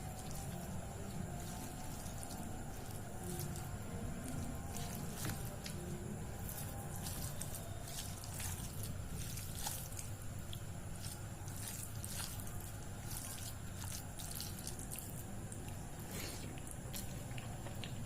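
Wet squishing and smacking of soft food such as dal and mashed potato being handled and eaten close to the microphone, with many short, irregular clicks.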